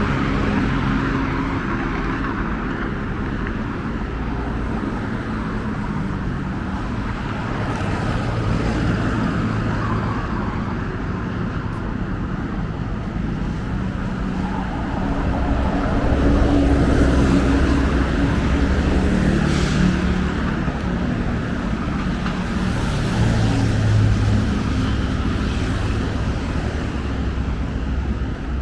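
Steady road traffic, with vehicle engines and tyres passing close by. It gets louder from about halfway through as heavier engine noise builds.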